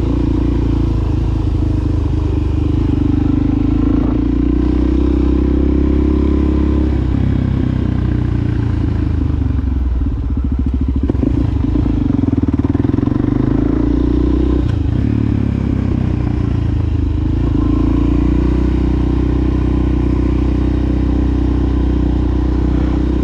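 Suzuki DRZ400SM supermoto's single-cylinder four-stroke engine running through a Yoshimura exhaust while riding. Its pitch dips and rises a few times as the throttle is eased off and opened again, with a rougher stretch around the middle.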